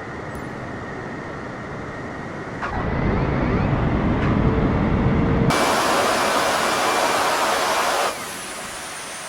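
Aircraft touching down and rolling out on the runway. A low rumble builds about three seconds in, then a loud rushing noise starts abruptly about five and a half seconds in and cuts off suddenly about two and a half seconds later.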